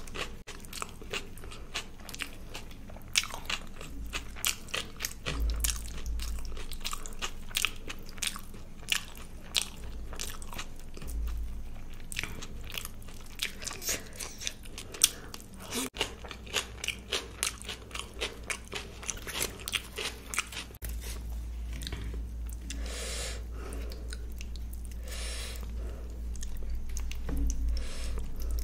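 Close-up eating sounds of a person chewing luchi (puffed deep-fried flatbread) with paneer curry: many quick, crisp crunches and mouth clicks. The crunches thin out over the last third.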